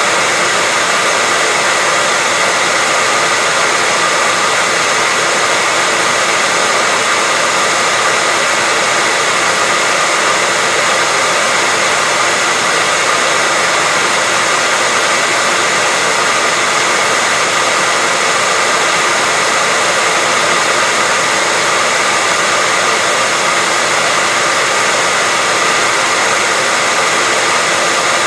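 Hairdryer running steadily on a constant setting: an even, unbroken blowing hiss with a faint motor whine in it.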